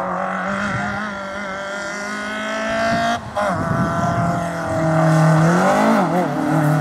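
Ford Fiesta rally car's engine running hard at high revs, holding a steady, slowly rising note, with a sudden brief cut about three seconds in at a gear change. The note swoops up and down again near the end before it settles.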